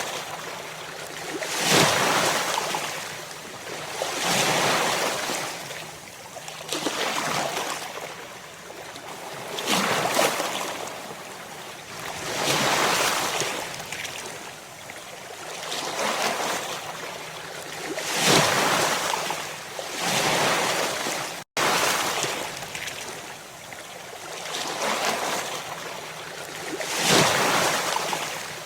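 Ocean waves breaking on the shore, one surge after another about every two and a half to three seconds, each swelling into a hissing wash and then ebbing. The sound cuts out completely for an instant about two-thirds of the way through.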